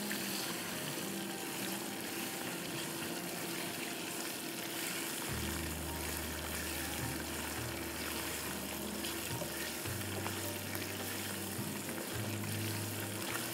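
Chicken pieces and fried brown onions sizzling in hot olive oil in a pan as they are stirred, a steady hiss. Soft background music with low held bass notes plays under it from about five seconds in.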